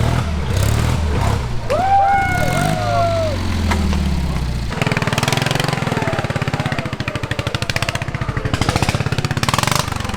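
Modified lawn-tractor mud-mower engines running. About five seconds in, the sound changes to a fast, even pulsing. A short rising-and-falling whoop comes about two seconds in.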